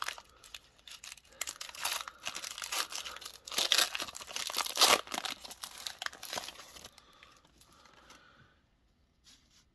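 Foil Pokémon booster pack wrapper being torn open and crinkled, a run of crackly rustles and rips that stops about seven seconds in.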